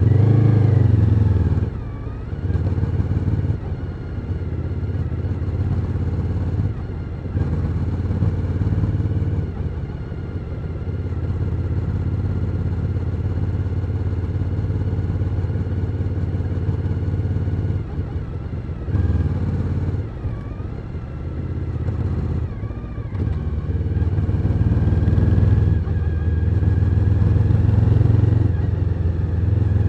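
Suzuki SV1000N's 996 cc 90-degree V-twin running under way. It opens up sharply at the start, and its revs drop and climb again a few times, near 2 s and around 19 to 23 s.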